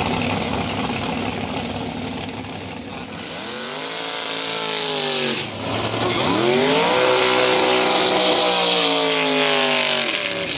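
A vehicle engine accelerating hard, rising in pitch, with a gear change about five and a half seconds in. It then pulls up again, holds, and its pitch slowly falls near the end.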